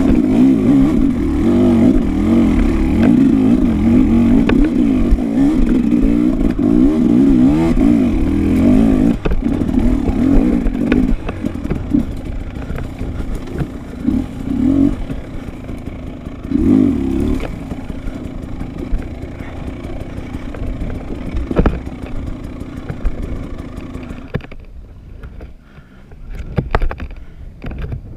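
Dirt bike engine being ridden hard, its revs rising and falling quickly. After about a third of the way it eases off to lower running with a few short throttle blips, and near the end it drops away to a faint sound. Occasional knocks and clatter.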